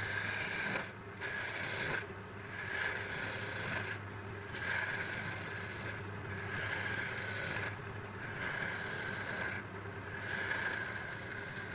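A machine running steadily with a hum, its sound changing in a cycle about every two seconds.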